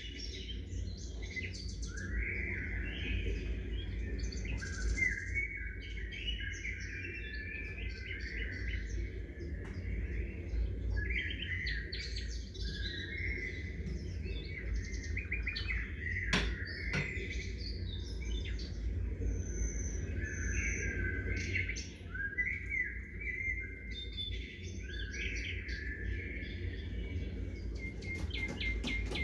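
Several small songbirds chirping throughout, short calls and trills overlapping one another, over a steady low background rumble.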